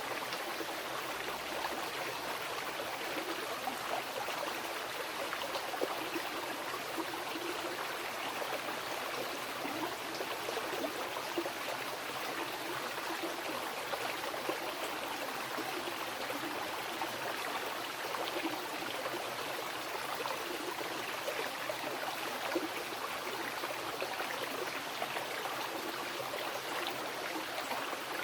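Mountain river flowing over rocks: a steady, even rush of water with small splashes and gurgles running through it.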